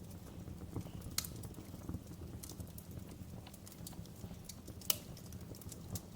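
Wood fire burning in a fireplace: a steady low rumble of flames with irregular crackles and pops, two sharper pops at about one second and near five seconds in.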